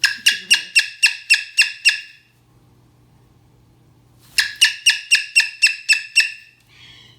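Cockatoo squawking in two quick runs of about eight harsh calls each, about four a second: one at the start and another about four seconds in.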